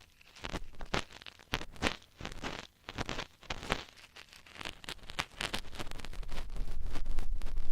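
Ear-cleaning tools scraping and rubbing close against the microphone, with irregular scratchy crackles that grow denser and louder near the end.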